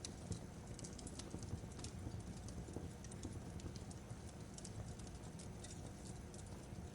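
Fireplace crackling: irregular sharp pops and snaps over a steady low rumble of the burning fire.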